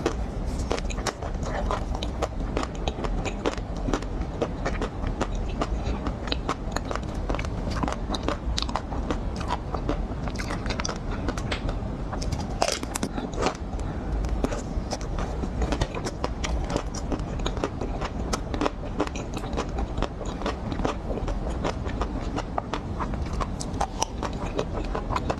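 Close-miked biting and chewing of chocolate-coated ice cream bars: a dense, unbroken run of crisp cracks and crunches as the hard chocolate shell breaks.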